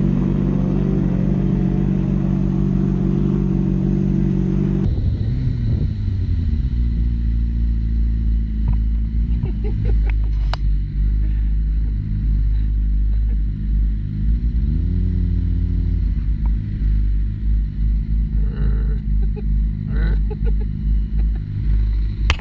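Motorcycle engine running while riding, with heavy wind rumble on the microphone; the sound changes abruptly about five seconds in, and the engine revs up and back down once past the middle.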